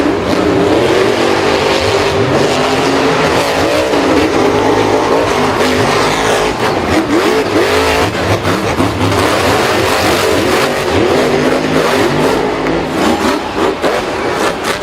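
Several engines revving at once, their pitches rising and falling over and over.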